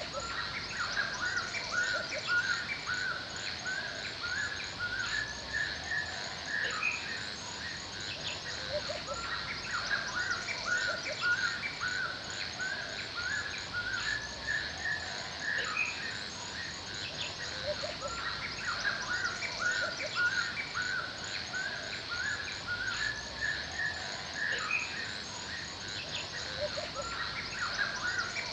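Forest ambience: many birds chirping and calling in a continuous dense chorus over a steady high hiss.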